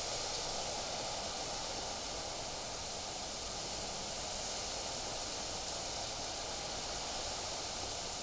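Steady wind outdoors: an even, unbroken hiss of wind and rustling foliage.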